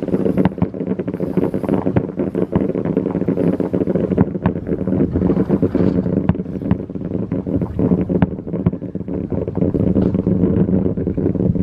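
Fireworks display: a dense run of bangs and crackling over a steady low drone.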